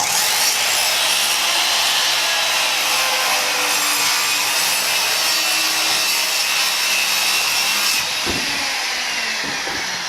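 A power saw starts and cuts through a wooden sheet in one steady pass. About eight seconds in the sound changes, with a knock, as the saw comes out of the cut.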